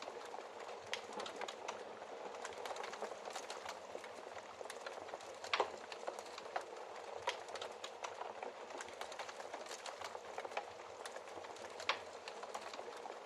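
Wood fire crackling in a fireplace: a steady hiss of small crackles with sharper pops every second or so, the loudest about halfway through and again near the end.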